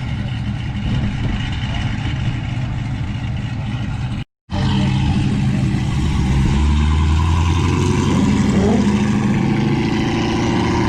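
Truck engines running as vehicles move around a parking lot: a low engine rumble, then, after a brief cut in the sound, a louder engine with a steady deep drone.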